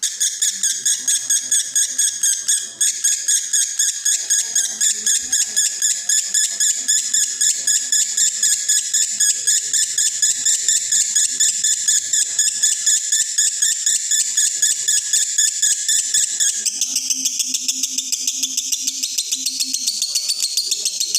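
Male lovebird in breeding condition singing in the 'konslet' style: a long unbroken run of rapid, evenly repeated high chirps. The song shifts in tone about three quarters of the way through.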